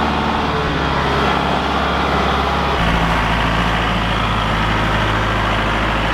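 Kubota L47 tractor-loader-backhoe's diesel engine running steadily. About three seconds in, its note changes, then holds steady again.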